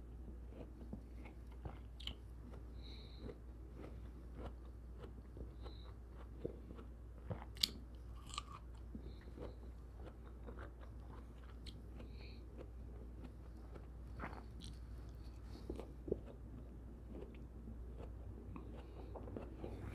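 Close-up chewing of soft cantaloupe chunks: quiet wet mouth sounds with many small clicks, and a sharper click a little before halfway and another near the end.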